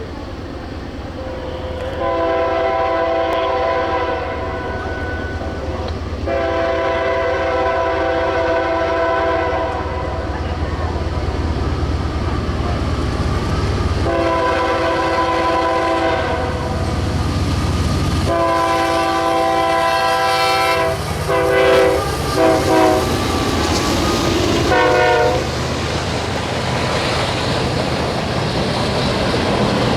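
CSX freight train's locomotive horn sounding a multi-note chord: four long blasts, then a few short ones, over the steady rumble of the diesel locomotives. Near the end, wheel clatter builds as the train passes.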